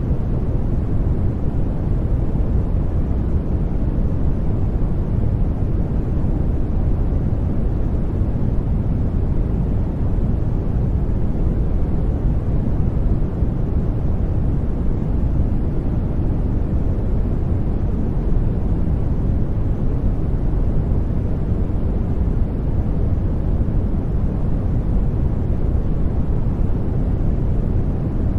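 Sleep-aid noise track: a steady, even hiss with its weight in the low pitches, deep and soft rather than bright, with no change in level or texture.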